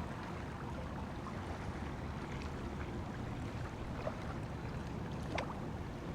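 Steady rush of wind and water waves, heaviest in the low range, with a few faint clicks about four seconds in and again near the end.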